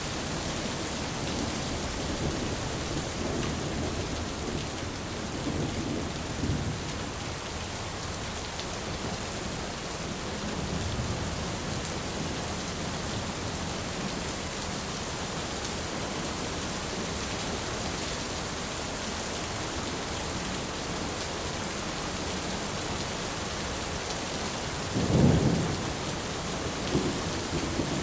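Thunderstorm: steady rain hissing, with low rolling thunder rumbling through the first several seconds and again about ten seconds in. A sharper, louder clap of thunder comes about twenty-five seconds in, followed by a smaller one shortly after.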